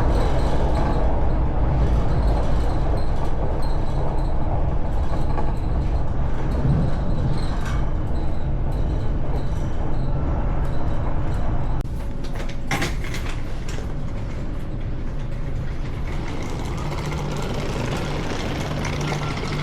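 Train running, heard from inside the carriage: a steady low rumble with faint rail clicks. About twelve seconds in it drops abruptly, with a brief clatter, to a quieter steady hum.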